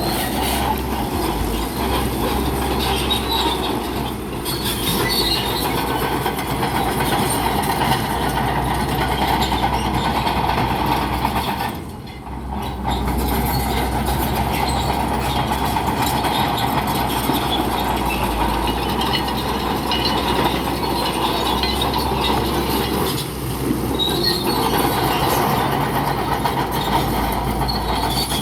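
Crawler bulldozer running hard, its engine rumbling steadily while the steel tracks clank and squeal, easing off briefly about twelve seconds in.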